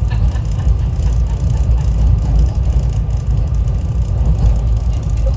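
SEPTA Regional Rail train running between stations, a steady low rumble of the moving train.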